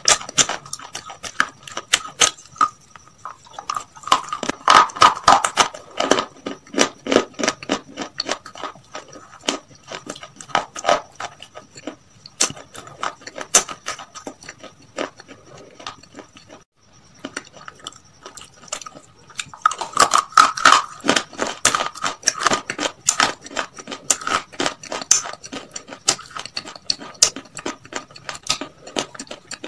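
Close-up chewing of crispy fried chicken: dense, irregular crunches and wet mouth clicks. They come thickest twice, with a brief pause just past the middle.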